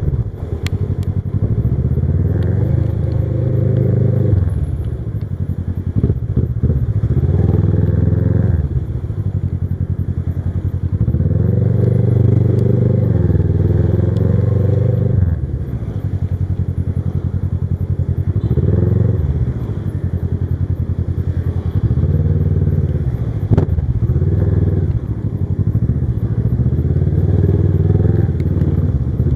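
Kawasaki Versys 650 parallel-twin engine heard from the bike while riding, its revs rising and dropping again and again as it pulls up through the gears and eases off. A few sharp knocks come through.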